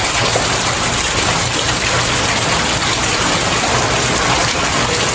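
Steady, heavy rain falling on stairs: a dense, even wash of drops hitting the steps.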